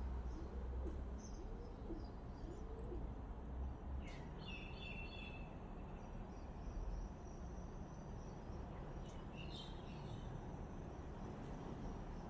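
Birds calling over a steady outdoor background: low cooing notes in the first couple of seconds, then short higher chirping calls about four seconds in and again near ten seconds.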